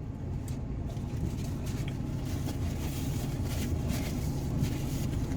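Steady low hum of an idling vehicle engine heard from inside the cab, with faint soft clicks of someone chewing over it.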